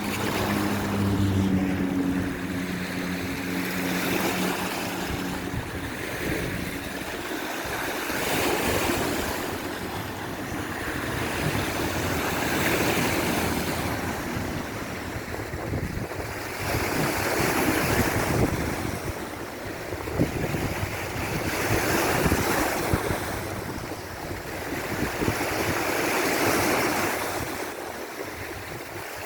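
Sea waves breaking and washing up the shore, the surf swelling and falling back about every four to five seconds. A low steady hum sits under the waves for the first several seconds, then fades out.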